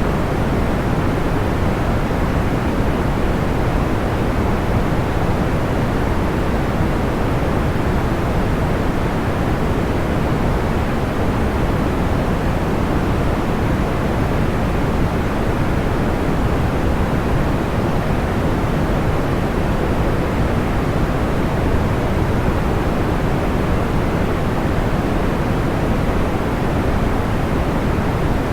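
Steady white noise for sleep: an even, muffled hiss weighted toward the low end, with no crackles or pops standing out.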